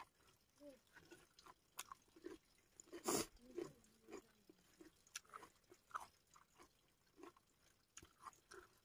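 A person chewing a mouthful of rice and fish: faint, scattered wet smacks and clicks of the mouth, with one louder bite about three seconds in.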